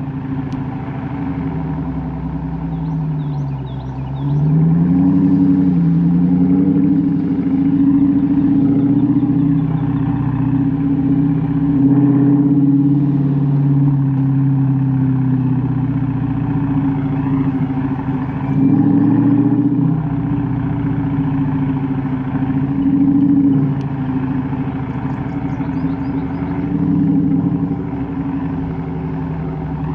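Chrysler 300's Hemi V8 running through Carven R mufflers with the resonators deleted: a steady, deep exhaust note. The pitch dips and climbs again a few seconds in, and the note grows louder under throttle several times.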